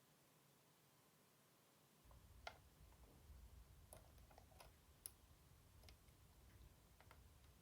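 Faint, scattered small clicks and taps of parts being handled while a PS4 Slim console is taken apart. A low hum starts about two seconds in.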